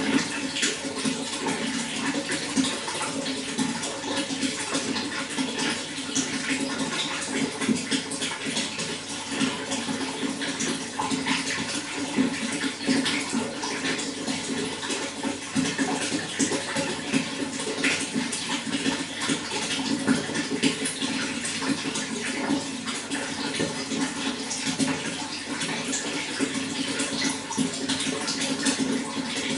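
Running water flowing and splashing steadily, one continuous rush with no pauses.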